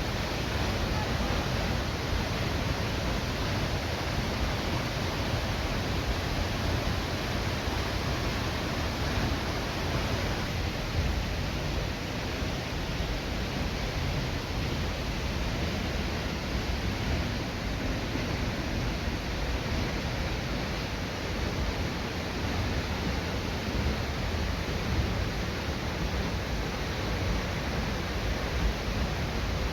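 Steady rushing of a waterfall: an even wash of water noise with no breaks.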